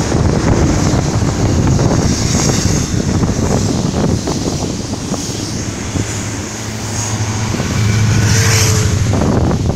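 Union Pacific double-stack container freight train rolling past below, a steady rumble with a continuous clatter of wheels on the rails, and wind on the microphone.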